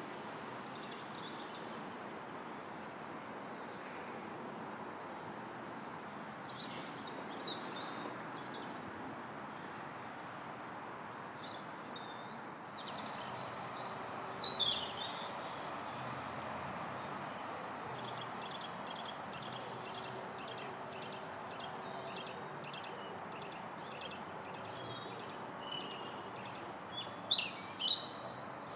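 Small songbirds chirping and calling in high, short notes over a steady background hum, with a run of quick repeated notes through the middle and louder chirps about halfway through and again near the end.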